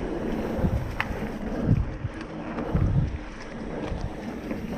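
Wind buffeting the microphone and the rumble of a mountain bike rolling over a dirt trail, with a sharp click about a second in.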